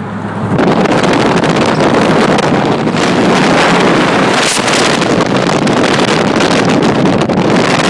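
Loud, steady wind roaring over the microphone, starting suddenly about half a second in.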